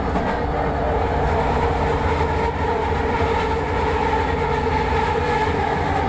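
LRT light-rail train running, a steady rumble with steady whining tones throughout.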